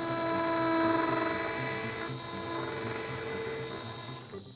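Surgical implant handpiece spinning a 3 mm twist drill, a steady motor whine that swells about a second in and fades out near the end.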